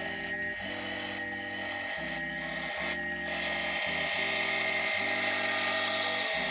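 Milling machine running with a steady high whine and a hiss that grows louder about four seconds in, over background music with changing chords.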